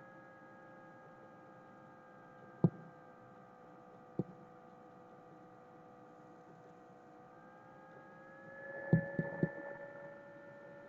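A steady hum made of several level tones, broken by sharp single clicks about three and four seconds in and a quick run of three clicks about nine seconds in.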